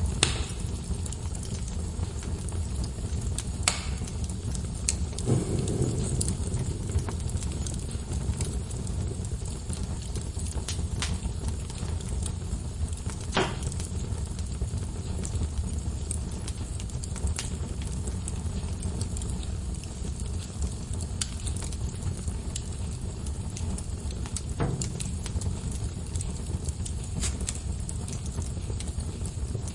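Wood fire in a fireplace crackling: irregular sharp pops from the burning logs over a steady low rumble of the flames.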